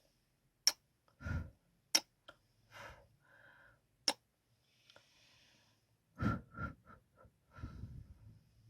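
Kissing sounds made into a microphone for ASMR: three sharp lip smacks spread over the first four seconds, with soft breaths and short wet mouth sounds between and after them.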